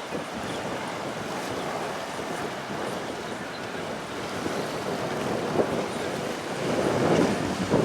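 Waves and choppy water churning, with strong wind buffeting the microphone; the water noise swells louder near the end.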